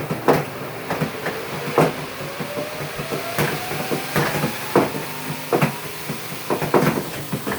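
Portable washing machine's spin cycle starting: the spin motor's whine rises steadily in pitch as the tub gets up to speed, over a hiss of water draining out, with irregular knocks and rattles.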